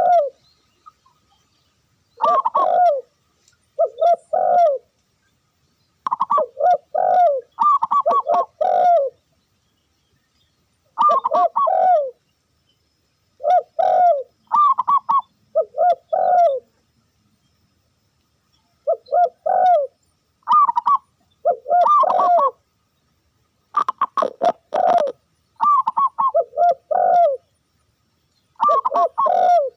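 Dove cooing: short phrases of a few rising-and-falling coos each, repeated every two seconds or so with silent gaps between. This is the kind of call used to lure wild doves.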